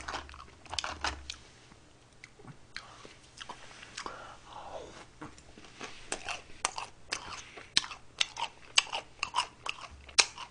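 Close-miked chewing of McDonald's french fries and ice cream, wet clicking mouth sounds that quicken to about three a second from around the middle.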